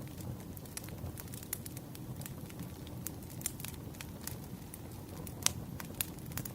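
Campfire crackling: burning wood with a low steady rumble and scattered sharp pops, two louder pops near the end.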